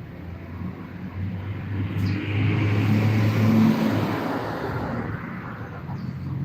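A motor vehicle passing: a low engine hum and tyre noise that swell up about two seconds in, peak in the middle and fade again.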